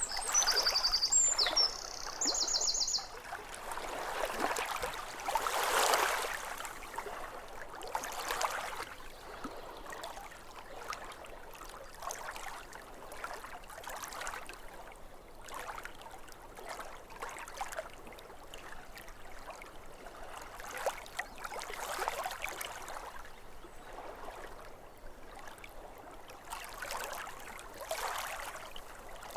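Small waves lapping at a lake shore in soft, irregular swells every couple of seconds. A songbird sings a quick run of high trilled notes during the first few seconds.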